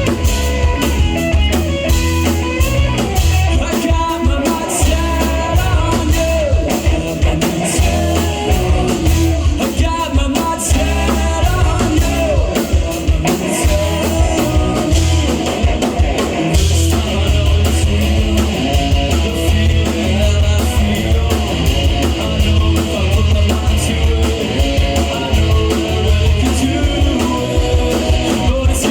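A live rock band playing a song: electric guitars, bass and a drum kit, with singing.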